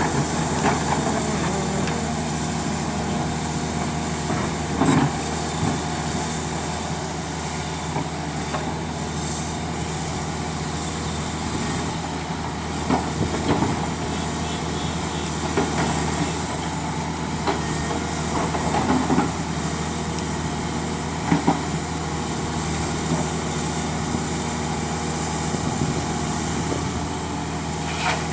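Heavy diesel engines of a hydraulic excavator and a dump truck running steadily under load, with a handful of short clunks and knocks as blasted rock is dumped into the truck's bed.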